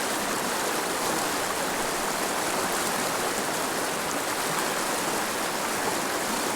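Mountain river running over rocks: a steady rush of flowing water.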